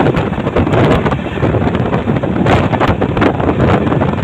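Wind rushing past and buffeting the microphone at the open window of an express passenger train running at speed, over the steady rumble of the coach's wheels on the rails, with irregular short knocks.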